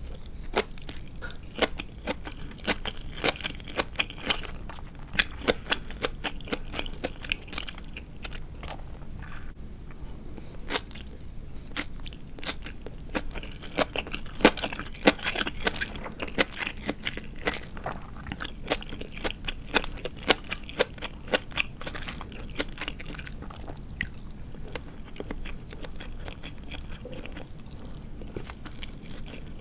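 Close-up crunchy chewing and biting of deep-fried marinated chicken (tatsuta-age): many sharp, irregular crunches from the fried coating, coming in clusters.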